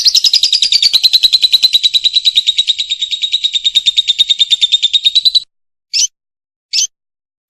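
Lovebird giving a long, fast chattering trill for about five seconds, then two short chirps.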